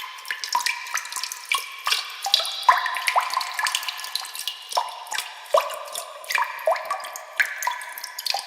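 Water dripping: irregular drops plinking into water, several a second, each a short plip that rises in pitch.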